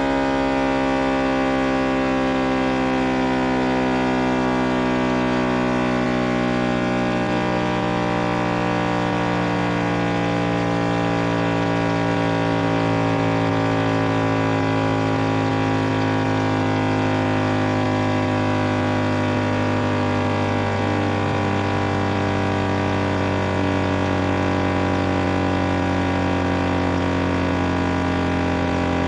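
Electronically generated water-eject tone: a steady, low-pitched hum of several tones sounding together, drifting slowly in pitch. It is played through a phone speaker to vibrate trapped water out of it.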